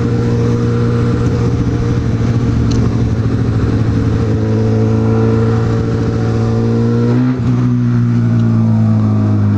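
Honda CB1000R's inline-four engine running under way, its pitch slowly rising as the bike gathers speed, then a short break and a drop in pitch about seven seconds in, like a gear change, after which it eases off.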